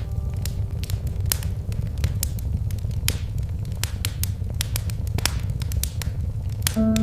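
Wood fire crackling: irregular sharp pops and snaps over a steady low rumble. Piano notes come in at the very end.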